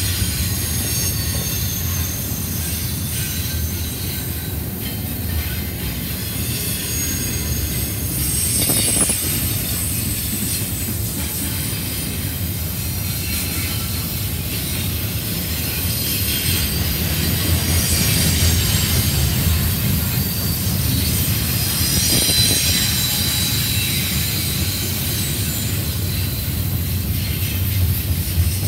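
CSX double-stack container train rolling past: a steady rumble of the well cars' wheels on the rails, with high-pitched wheel squeal coming and going.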